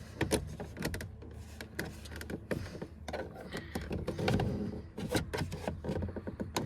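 Irregular clicks, taps and light knocks of hands and tools working on a truck door's handle and latch parts, with a steady low hum underneath.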